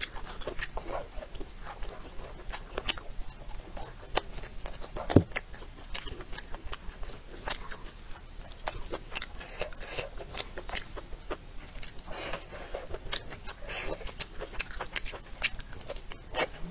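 Close-miked chewing and lip-smacking of a person eating braised food, a dense run of small wet mouth clicks, with one sharper click about five seconds in.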